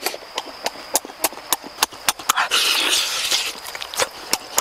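Close-up eating sounds: fast, irregular wet lip-smacking and chewing clicks, with a short rush of crunching or slurping noise a little past halfway.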